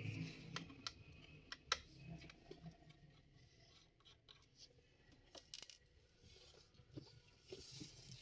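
Faint, scattered small clicks and taps of a screwdriver and plastic and metal parts being handled while a laptop is taken apart.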